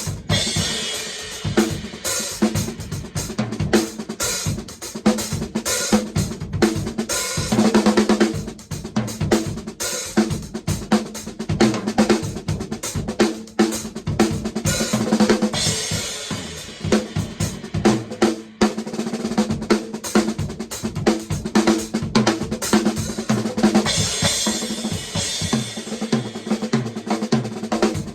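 Acoustic drum kit played in a continuous groove: snare, bass drum, hi-hat and cymbals, with a drum ringing at a steady low pitch.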